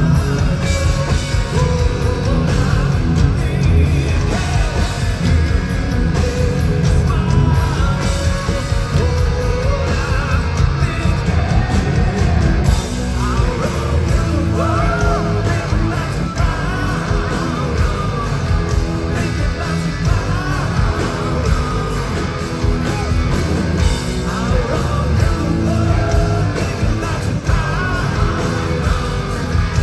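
Live rock band performing, heard through a fan's phone recording: heavy distorted guitars, bass and drums, with a shouted lead vocal that comes in strongly about halfway through.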